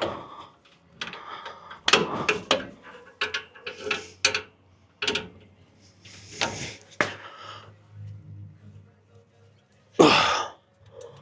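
Hand tools and metal brake parts clanking and knocking during brake work, a string of irregular sharp metallic knocks, some ringing briefly, with a louder knock near the end.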